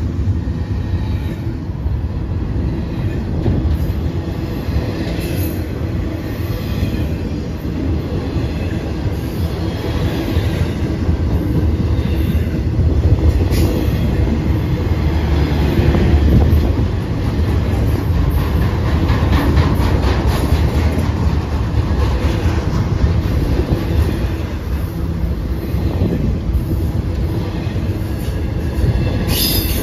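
BNSF intermodal freight train's container and trailer cars passing at speed: a steady heavy rumble of steel wheels on rail, with clicking and rattling and some faint wheel squeal.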